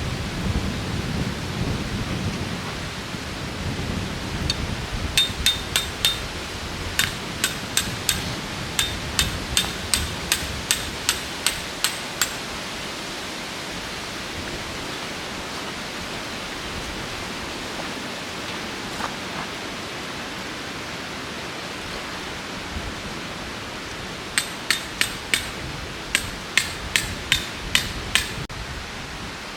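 Strong wind rushing and buffeting, heaviest in the first few seconds. Over it come two runs of sharp, ringing metallic hammer strikes, about two a second, one run of around seven seconds and a shorter one near the end.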